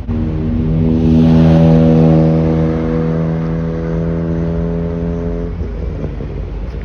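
A modified car's engine and exhaust droning at steady revs, swelling to its loudest a second or two in, then fading and cutting out about five and a half seconds in, over a continuous low rumble.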